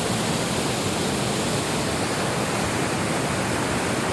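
Steady, even rush of water pouring down a waterfall, with no breaks or changes.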